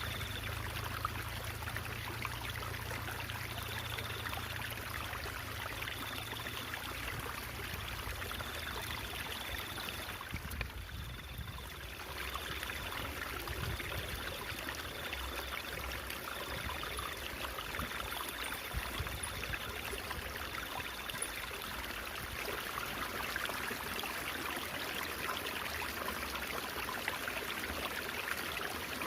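Stream water babbling and trickling steadily. A faint high thin tone comes and goes in short stretches through the first two thirds.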